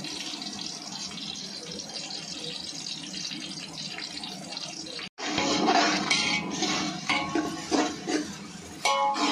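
Sliced onions with fresh ginger-garlic paste sizzling steadily in hot oil and ghee in a large aluminium pot. After a brief break about five seconds in, the sizzle comes back louder, with a metal perforated skimmer scraping and knocking against the pot as it stirs.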